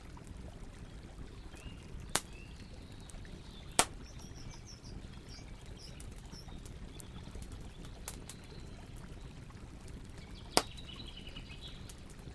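Campfire burning with faint crackling and three sharp pops, over the steady rush of a river. Birds chirp briefly twice.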